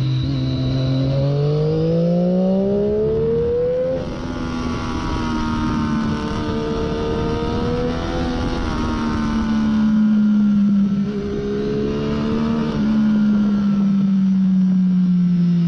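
A 2014 Triumph Daytona 675's three-cylinder engine, breathing through a Hindle slip-on muffler, accelerating hard with rising pitch, then upshifting about four seconds in and running at fairly steady revs with small dips. Wind rushes over the onboard microphone throughout.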